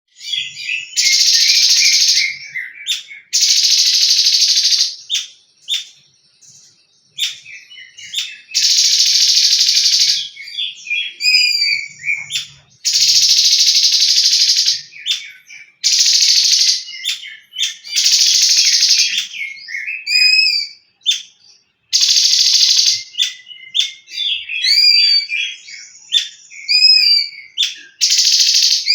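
Cungkok songbird singing in loud harsh rattling bursts of one to two seconds each, about eight of them, alternating with short clear whistled notes that slide up and down: the rapid-fire 'tembakan' song that bird keepers prize.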